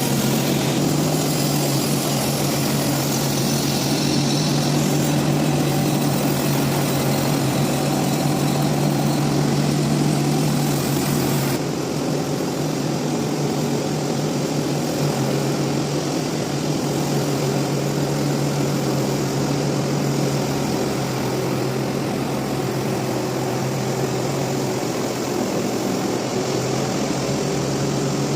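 Sawmill machinery running steadily, a continuous mechanical hum with a strong low drone; the sound changes abruptly about twelve seconds in.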